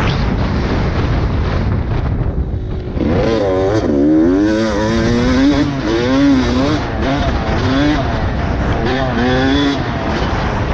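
Dirt bike engine revving, its pitch climbing and dropping again and again from about three seconds in, over a steady rushing noise that fills the first few seconds.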